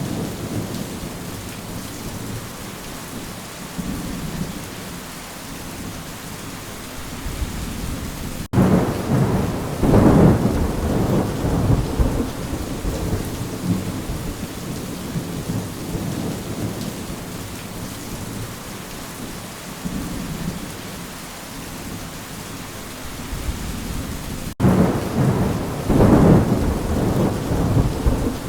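Steady rain with rolls of thunder: one rumble comes in suddenly about eight seconds in and swells over a few seconds, and another comes near the end.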